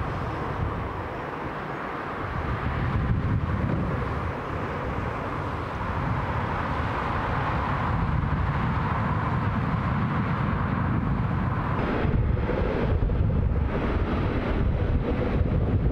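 Rail traffic: a steady low rumble and rushing noise that swells a few seconds in, changing from about twelve seconds in to a rougher rush with wind buffeting the microphone.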